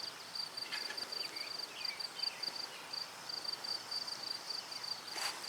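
Insects chirping outdoors: a steady, high-pitched pulsing trill that repeats evenly, like crickets, with a few faint chirps about a second or two in.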